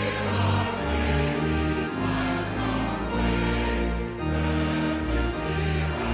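Choir singing a hymn with orchestral accompaniment, in held notes over a steady bass line.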